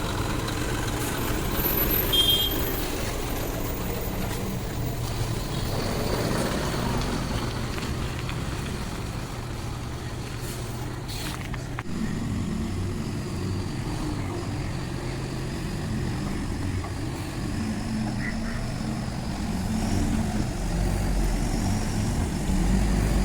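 Truck engine running steadily, a low diesel hum, with road vehicle noise around it.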